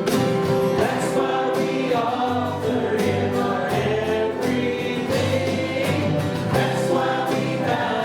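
Church worship band playing a gospel-style worship song, with singers holding long sung notes over a steady beat.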